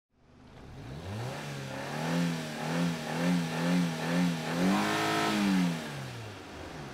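Car engine revving: it fades in and climbs over the first second, rises and falls in quick blips about twice a second, then climbs higher about five seconds in and winds back down.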